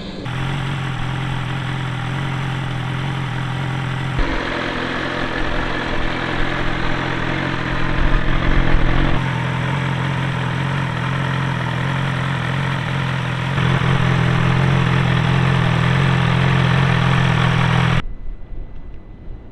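BMW S1000XR's inline four-cylinder engine idling steadily through an Akrapovic exhaust, with a low, even tone that shifts abruptly a few times. It cuts to a much quieter sound near the end.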